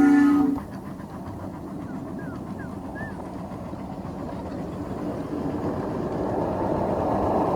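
A 7.5-inch gauge riding train rolling along its track, a steady rumble and clatter of the cars that grows louder toward the end. At the very start, a chord-toned locomotive whistle cuts off.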